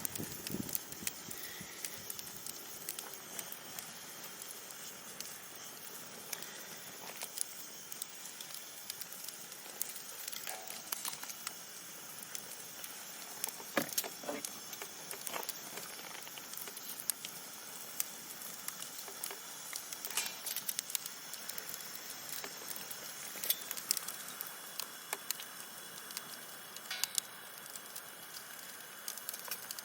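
Wood fire crackling: irregular sharp pops and snaps, a few of them louder, over a steady soft hiss.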